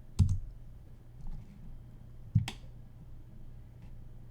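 Two sharp clicks on the computer, about two seconds apart, with a fainter click between them, over a steady low hum.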